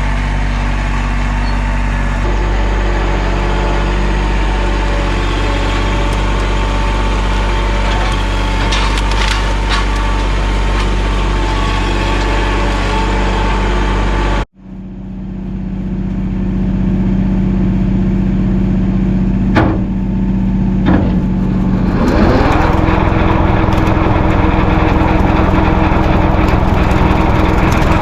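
Mahindra 1626 sub-compact tractor's diesel engine running steadily. About halfway through, the sound breaks off for a moment and comes back at a different engine note, with two short knocks. A few seconds before the end the engine speeds up and gets louder.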